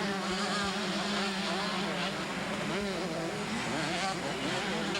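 Several 125cc two-stroke motocross bikes racing, their engines revving up and down over one another above a steady low hum.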